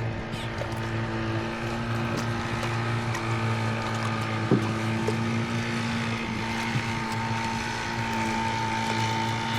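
Boat's outboard motor running at a steady pitch under way. A single sharp knock comes about four and a half seconds in.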